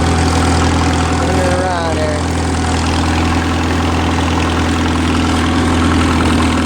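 International Harvester Farmall H tractor's four-cylinder gasoline engine running steadily at low speed.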